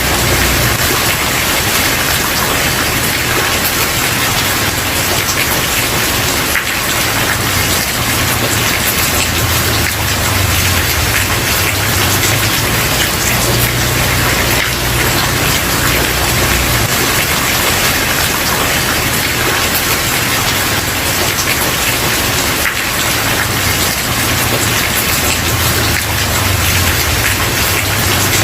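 Steady heavy rain falling on a wooden porch, an even dense hiss of drops with no sudden sounds.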